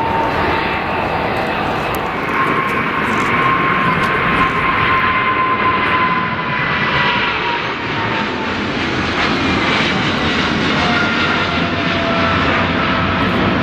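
Jet airliner's engines at high power as it passes close by: a loud, steady rush with whining tones that slowly fall in pitch, a second lower whine coming in near the end.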